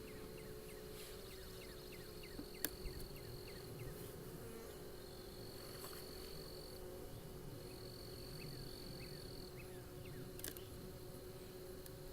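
Honey bees from an open hive buzzing, a steady low hum. Behind it run quick series of falling chirps and a high thin tone that comes and goes, with two sharp clicks, one early and one near the end.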